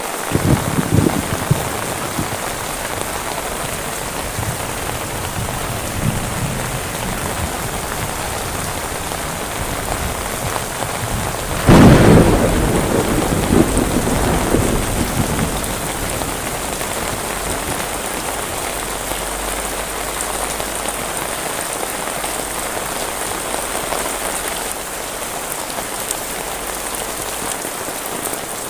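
Heavy rain falling steadily. A sudden loud crack of thunder comes about twelve seconds in and rumbles away over a few seconds.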